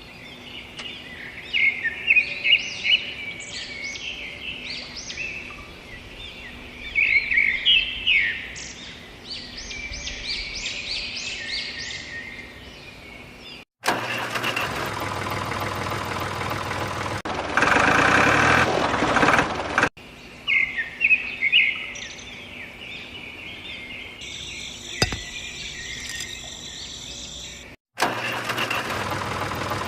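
Birds chirping in quick bursts over a faint low hum. Twice an abrupt cut brings in a small engine running steadily, once midway and again near the end.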